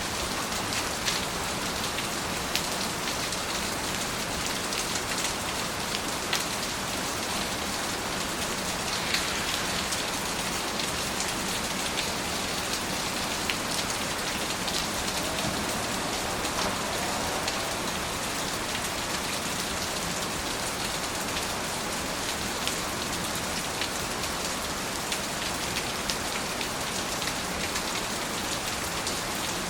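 Steady rain falling, an even hiss with scattered individual drop ticks now and then.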